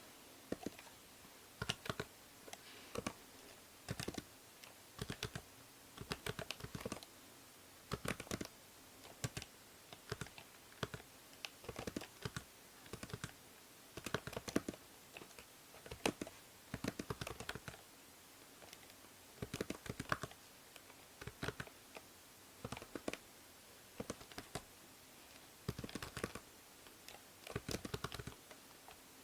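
Typing on a computer keyboard: irregular runs of keystroke clicks with short pauses between them, over a steady low hiss from the binaural microphone.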